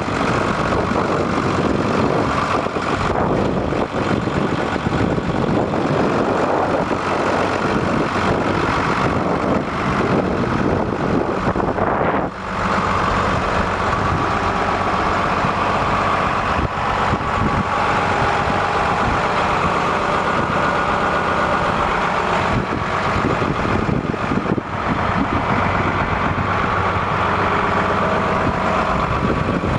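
2001 New Holland TM135 tractor's diesel engine running steadily at idle.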